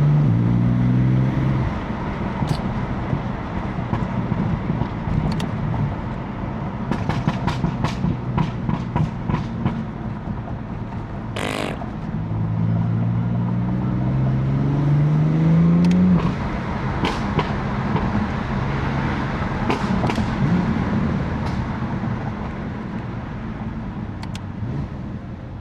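BMW F80 M3's twin-turbo straight-six running under the car, the engine note rising as it pulls through a gear at the start and again from about halfway until roughly two thirds in, then dropping off. Scattered sharp exhaust pops and crackles are heard, with a longer burst just before the second pull and more crackles after it lets off.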